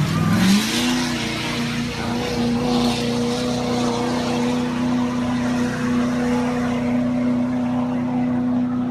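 A truck engine revs up within the first second and is then held flat out at a steady high pitch, with bursts of rushing noise near the start and again about three seconds in.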